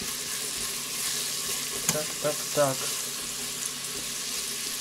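Carrots and onions sizzling as they fry in a multicooker's ceramic-coated bowl: a steady fine crackle, the browning stage of chicken pilaf. A brief click about two seconds in.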